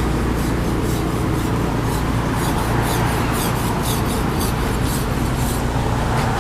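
A steady low mechanical hum, with a run of short rubbing or scraping strokes, about three a second, through the middle.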